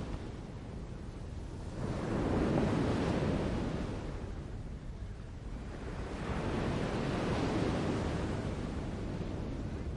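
Outdoor nature ambience: a rushing noise that swells and ebbs in slow surges every few seconds, with no bird calls.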